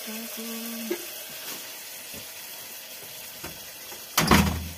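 Onion and tomato masala sizzling as it fries in oil in a cooking pot, a steady hiss with a few small clicks. About four seconds in comes a single loud knock, the loudest sound here.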